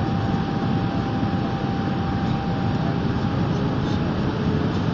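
Passenger airliner cabin noise in flight: the steady rush of engines and airflow, with a faint steady whine above it.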